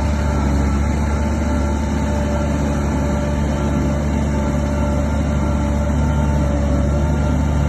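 Heavy diesel earthmoving machinery running steadily, a deep, even engine rumble with no breaks or changes.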